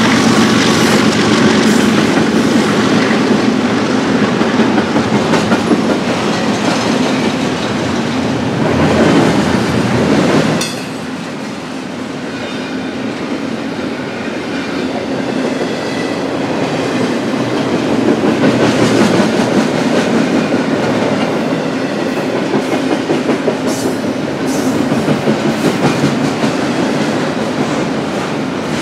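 Freight cars of a BNSF intermodal stack train rolling past at speed, wheels clicking over rail joints under a steady rumble. The loudness drops suddenly about ten seconds in, then slowly builds again.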